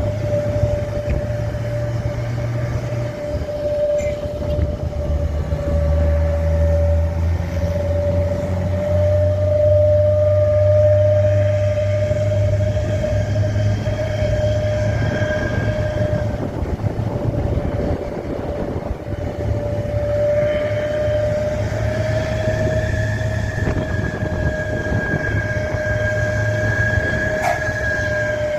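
Heavy truck running steadily, with a constant high whine over a low engine rumble. The rumble deepens and eases a few times.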